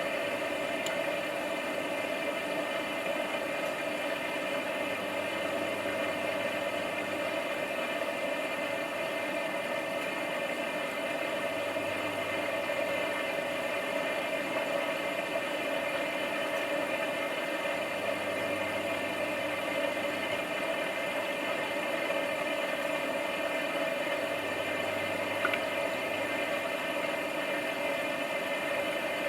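Washing machine running with a steady mechanical hum and whir, and a deeper low hum that swells and fades every several seconds.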